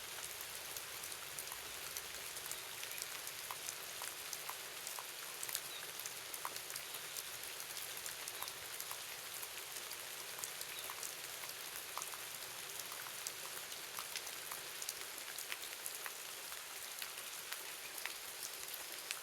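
Steady rain: an even hiss with many separate drops tapping through it.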